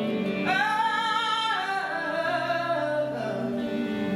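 Gospel worship singing: a voice slides up into a long, high held note about half a second in, then eases down to lower held notes, over a steady sustained accompaniment.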